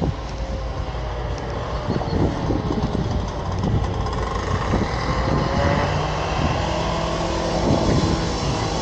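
Road traffic: a motor vehicle's engine running with road noise, growing gradually louder towards the end.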